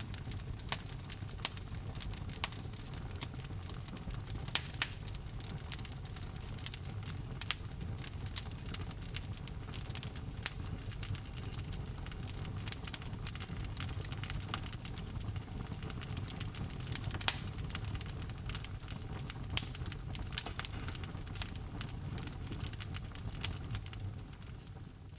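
Wood logs burning in a fireplace, crackling with frequent sharp pops over a steady low rumble of flame. The sound fades out at the very end.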